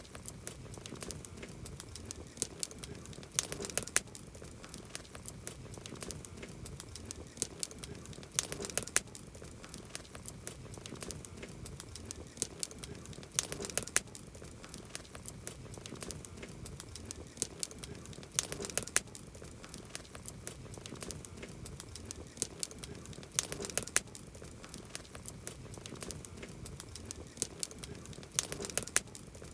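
Wood campfire crackling, with a steady stream of sharp pops and snaps, and a cluster of louder pops about every five seconds.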